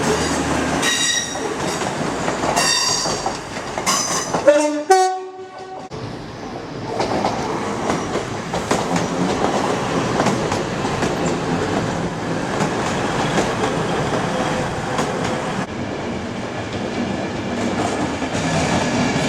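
A passenger train on the East Coast main line, most likely an LNER Class 91-hauled set with Driving Van Trailer 82-222, passing on the tracks. A train horn sounds briefly about four and a half seconds in, then the train runs by with a steady rumble and wheel clatter.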